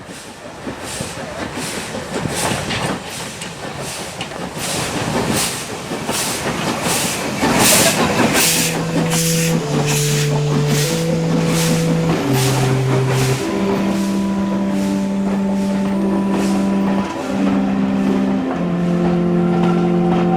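Steam locomotive 53808, a Somerset & Dorset 7F 2-8-0, working with a steady run of exhaust beats about two a second, loudest around eight seconds in. About halfway through, slow music with long held notes comes in over it.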